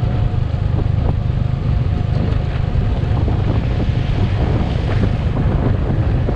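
Wind buffeting the microphone on a moving motorcycle, with the bike's engine and road noise running steadily underneath.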